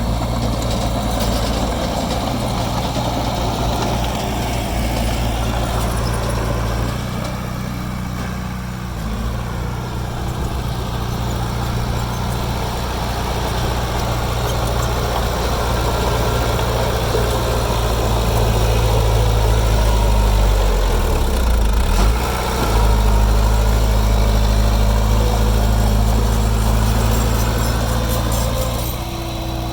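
Heavy diesel engine of earthmoving machinery running steadily. It eases off for a couple of seconds about a quarter of the way in, then works harder through the second half, with a brief dip in the middle of that stretch.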